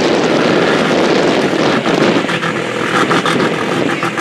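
Demolition derby car engines running hard and loud, a dense rough engine noise that holds steady throughout.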